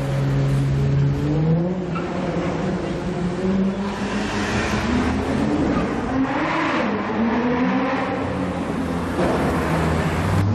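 Supercar engines revving and accelerating in street traffic. A steady engine note climbs about a second and a half in, followed by several surges of engine and exhaust noise around four, six and nine seconds in.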